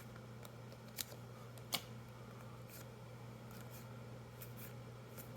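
Faint handling of trading cards from a freshly opened booster pack: soft clicks and light rustling, with two sharper snaps about one second and close to two seconds in, over a steady low hum.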